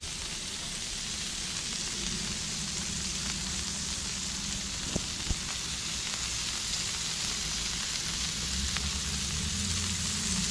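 Asparagus spears sizzling in bacon grease on a hot flat-top griddle: a steady frying hiss, with two light ticks about halfway through.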